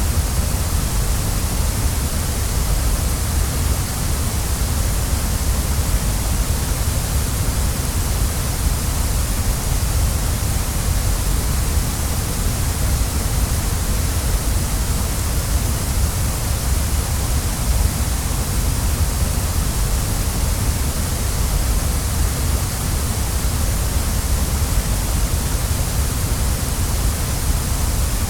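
Waterfall: falling water rushing steadily and evenly, with a deep low rumble under a bright hiss and no change in level.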